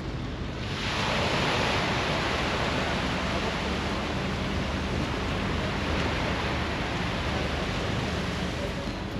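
Sea waves washing onto the beach: an even, steady hiss of surf that swells up about a second in and holds.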